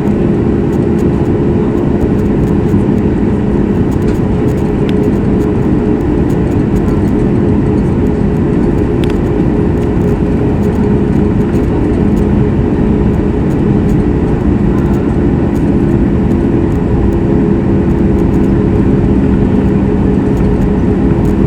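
Steady cabin noise of a Boeing 737 MAX 8 with its CFM LEAP-1B engines running: an even rushing drone with a constant low hum, unchanging throughout.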